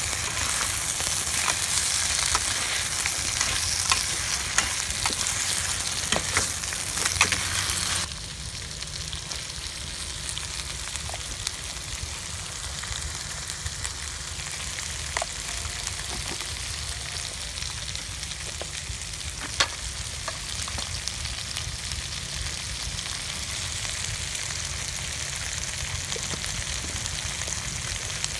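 Crabs in curry sauce sizzling in a steaming stainless steel pot, with a metal ladle stirring and scraping in sharp scattered clicks. The sizzle is louder for about the first eight seconds, then drops suddenly to a quieter steady hiss.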